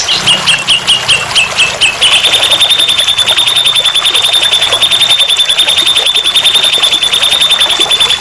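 A recorded songbird call played as tutor song for a young magpie-robin: about eight short, clipped chirps, then a fast, steady, high trill for about six seconds.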